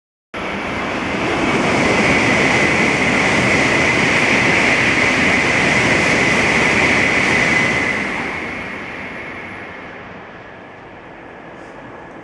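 Shinkansen bullet train passing at about 300 km/h: a loud, steady rush that starts abruptly, holds for about seven seconds, then dies away over a few seconds as the train goes by.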